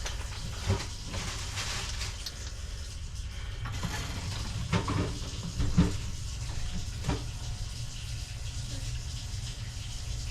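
Water running through the plumbing, a steady hiss that eases after about four seconds, with a few sharp knocks.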